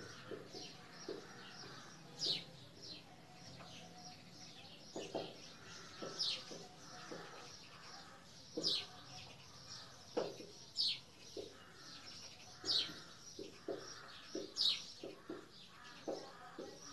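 A bird chirping over and over, each chirp a short high note falling in pitch, about one every two seconds. Underneath is the soft scratch and squeak of a marker writing on a whiteboard.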